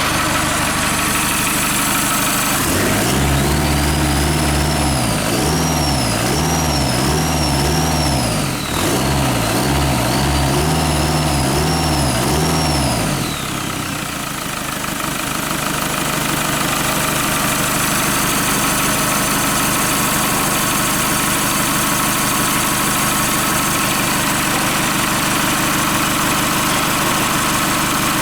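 A Hyundai/Kia D4CB diesel engine being turned over twice by its starter motor, as done for a compression test. Each run lasts about five seconds and has a rhythmic rise and fall in the starter's whine and a low pulsing, over a steady mechanical hum that continues after the cranking stops.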